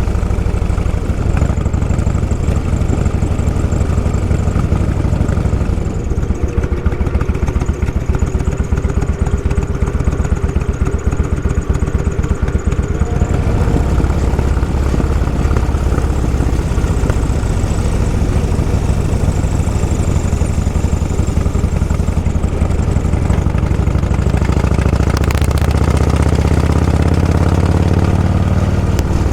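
Vehicle engine running steadily on the move, a loud low rumble with a fast, even pulse.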